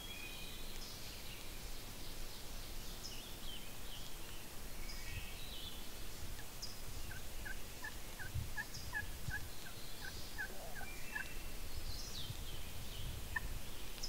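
Distant wild turkey gobbler gobbling, a quick run of notes about halfway through, among high songbird chirps.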